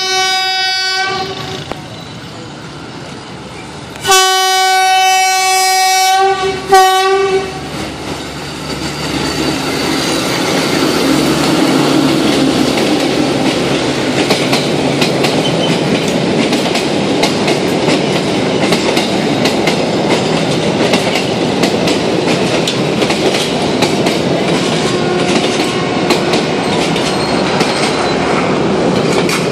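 Diesel locomotive's air horn, a D09E: one blast at the start, a longer blast about four seconds in and a short toot right after. Then the train passes close by, the passenger coaches' wheels clattering over the rail joints in a loud, steady rumble.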